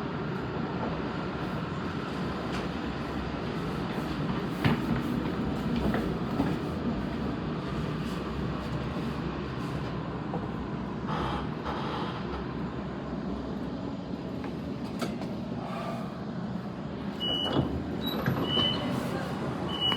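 Steady rumble of a Sydney electric train, with a few clicks and knocks. Near the end a series of short high beeps sounds about a second apart.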